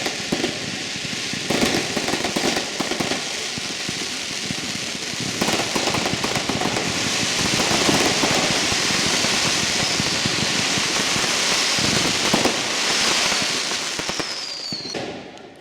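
A firework hissing and crackling without a break for about fifteen seconds, starting and stopping abruptly, with a falling whistle near the end.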